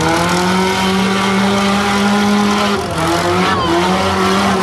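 Demolition derby car engine revving hard under load, held at high revs for nearly three seconds, then dropping and revving up and down again.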